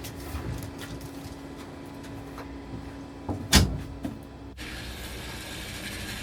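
A steady low hum with scattered small clicks, broken by one loud, sharp thump a little past halfway, like a door or panel banging shut; soon after, the background hum changes abruptly.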